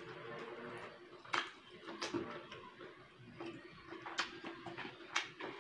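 Close-up eating sounds of a person chewing a mouthful of rice and fish, with several sharp wet mouth clicks and lip smacks.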